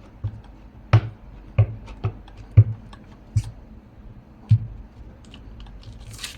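Stamping with an acrylic block and ink pad on a tabletop: about six light knocks and taps at uneven intervals, most of them in the first four and a half seconds.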